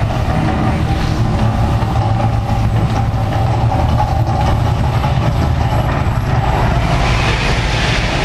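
Loud, steady deep rumbling from a volcano attraction's eruption effects.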